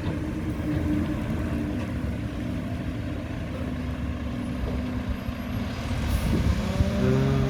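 Heavy truck engine running, with a short burst of air hiss about six seconds in and a steady pitched drone starting near the end.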